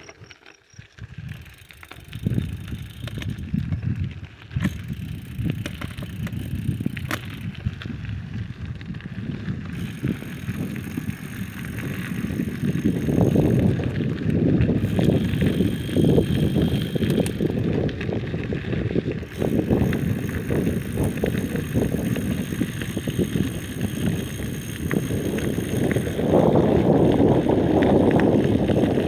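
Riding noise of a bicycle in motion: a steady rushing of wind and road noise, louder about halfway through and again near the end.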